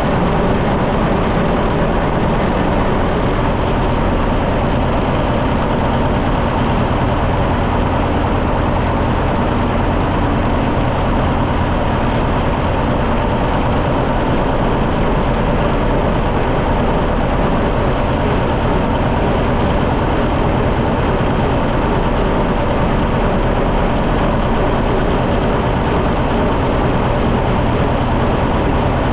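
John Deere 730 tractor's two-cylinder engine running steadily, its pitch unchanging throughout.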